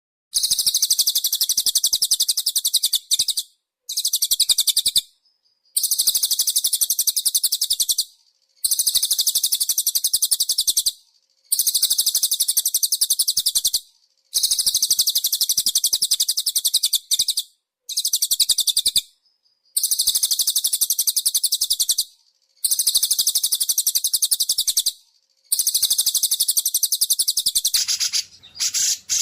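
Recorded songbird giving a rapid, high-pitched chattering trill in about ten bursts of two to three seconds, separated by short pauses; a different call takes over near the end.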